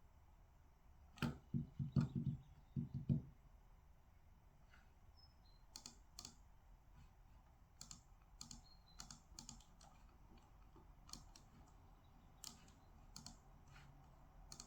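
Typing on a computer keyboard: scattered, irregular key clicks. About a second in there is a short cluster of louder, duller thuds.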